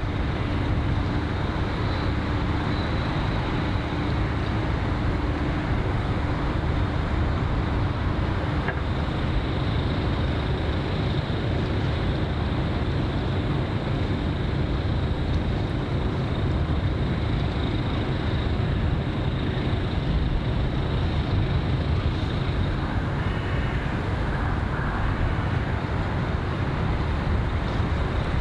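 Steady outdoor city ambience: a continuous low rumble of distant traffic and engines, with a faint high-pitched whine over it.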